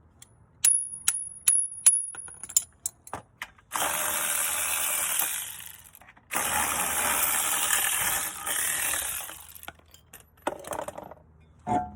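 Metal hand tools clinking against metal several times with a bright ring, then two long steady hisses, the second about twice as long as the first, and a few more knocks near the end.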